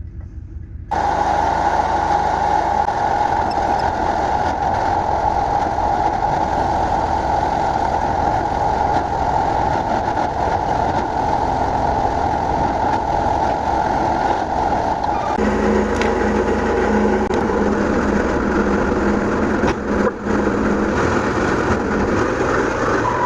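An engine running steadily. About fifteen seconds in its sound changes and a steady low hum comes in.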